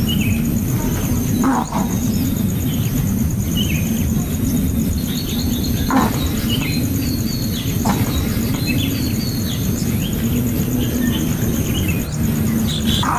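Short bird chirps and squeaks scattered through, over a steady low rumble and a constant high, finely pulsing tone.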